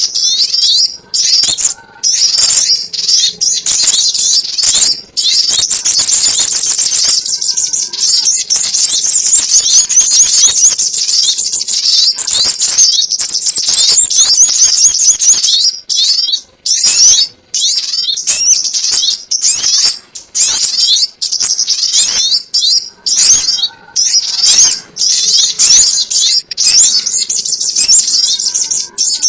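Recorded song of the sogon ontong bird, dense rapid high twittering and chirping with brief breaks, played as a lure call for trapping the bird.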